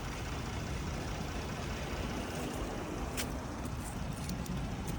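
Car engine running steadily at idle, a low rumble, with one sharp click about three seconds in.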